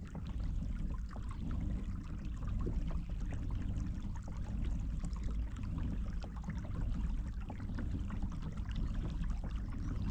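Water splashing and trickling against a kayak hull over a steady low rumble, with many small ticks and drips.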